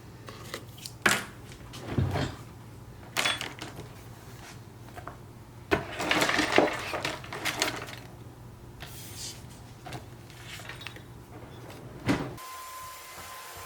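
Irregular rustling, clicks and knocks of things being handled and moved, loudest in a cluster a little before the middle. Near the end it cuts off suddenly to quieter room tone with a faint steady tone.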